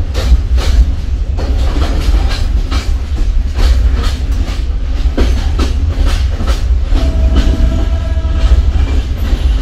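Passenger train running on the line: a heavy low rumble with irregular clanks and clatter from the wheels on the rails. About seven seconds in, a steady higher tone sounds for about two seconds.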